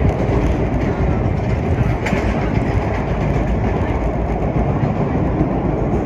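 Vintage R1-9 subway train running at speed through the tunnel, a loud, steady rumble of wheels on rail with a faint click about two seconds in.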